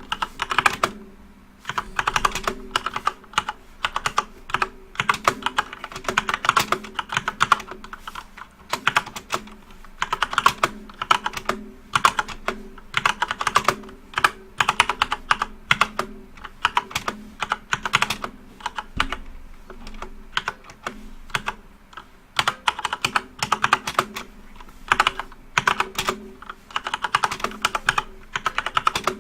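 Typing on a backlit computer keyboard: quick runs of keystroke clicks with brief pauses between them.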